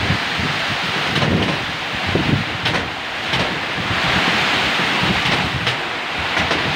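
A steady rushing noise with uneven low rumbles, typical of wind buffeting the microphone.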